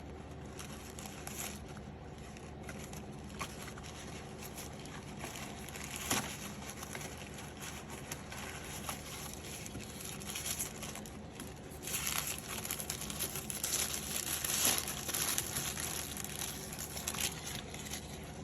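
Rustling, crinkling and small scattered clicks of gloved hands handling an EL34 vacuum tube and working it into its amp socket, busiest a little past the middle, over a low steady hum.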